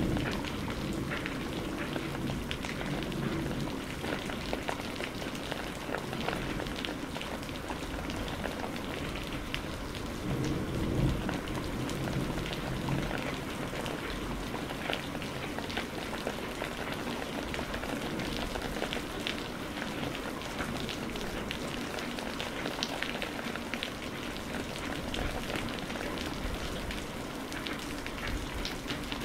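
Steady rain falling on a surface, with many individual drops ticking. A low rumble of distant thunder swells briefly near the start and again about ten seconds in.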